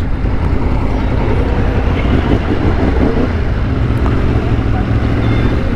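Motorcycle engine running steadily at low cruising speed, with noise over the microphone.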